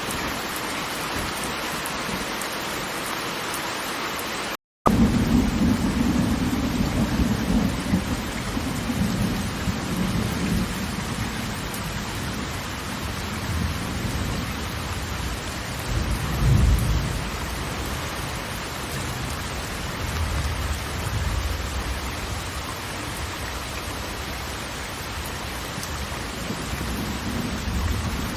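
Steady rushing water noise that cuts out briefly about five seconds in. It gives way to steady rain with rolling thunder rumbles, the loudest rumble about two-thirds of the way through.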